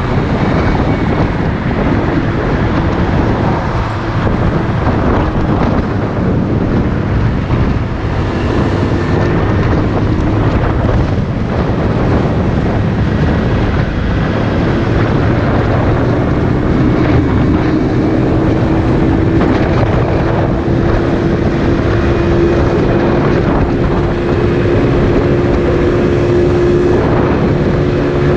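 Motorcycle engine running under way, with wind buffeting the microphone. The engine note grows clearer and climbs slightly in pitch past the middle.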